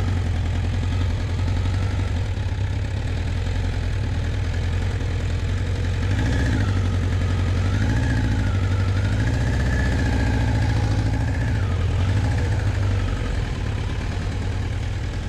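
Motorcycle engine running, its note rising and falling a few times in the middle.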